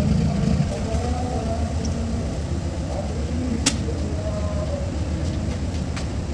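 Passenger train's diesel locomotive running with a steady low rumble as the train departs. A single sharp click about halfway through, with faint voices in the background.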